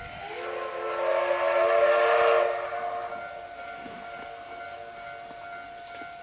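C12 66 steam locomotive's steam whistle blowing: a loud chord of several tones for about three seconds, then one fainter steady tone lingering.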